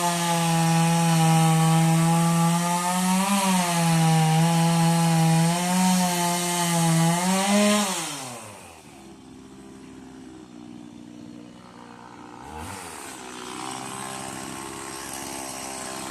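Two-stroke Stihl chainsaw held at full throttle with its pitch dipping slightly under load, as when cutting wood. About halfway through the throttle is released and it drops to idle, with one short rev a few seconds later.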